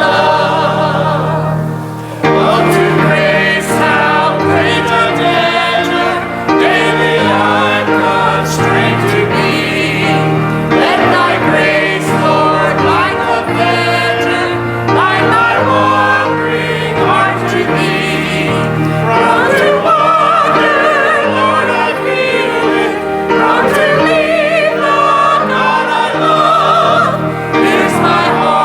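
Church choir singing a hymn together over sustained instrumental accompaniment, continuous and steady in loudness.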